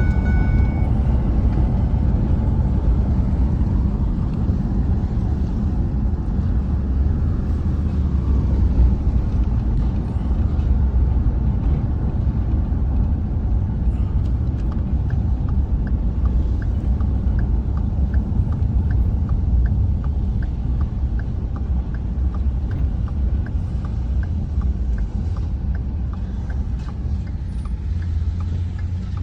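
Truck on the move: a steady low rumble of engine and road noise. From about halfway through, a light regular ticking joins it, about one and a half ticks a second.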